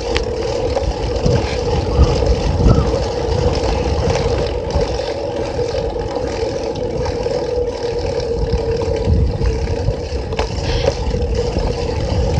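Riding noise from a bicycle ride: an uneven low rumble of wind and rolling tyres, with a steady hum underneath.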